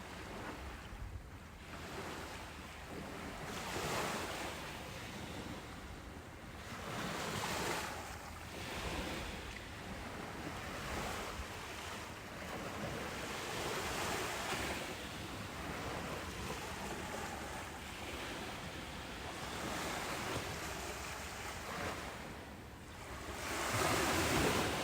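Ocean waves breaking and washing on a beach: a steady rush of surf that swells and falls back every few seconds, with the biggest wave near the end.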